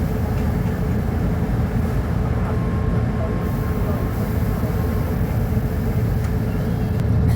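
Mercedes-Benz O-500UA articulated bus's diesel engine running steadily, a low rumble with a faint steady hum above it.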